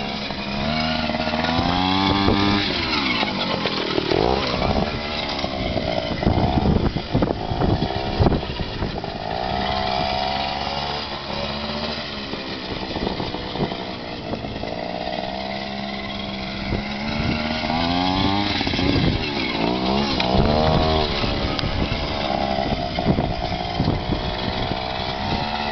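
Sherco 50 trials bike's small two-stroke engine being ridden, its pitch rising and falling again and again with the throttle.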